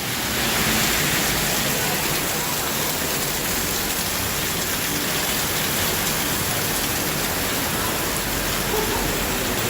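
Rain falling steadily, an even, constant hiss.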